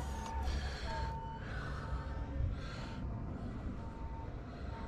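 A reversing alarm beeps in a steady one-tone pattern, about once a second, over a constant low rumble. Short breaths sound close to the microphone, about a second and two and a half seconds in.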